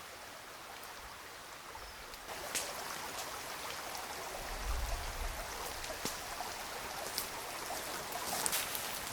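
A small river flowing: a steady rush of water that grows louder about two seconds in, with a few sharp clicks and a brief low rumble around the middle.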